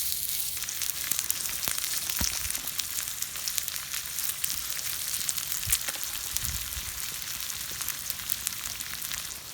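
Seasoned meat sizzling on a hot cooking surface, a steady frying hiss with scattered small pops and crackles, starting loud as the meat goes on.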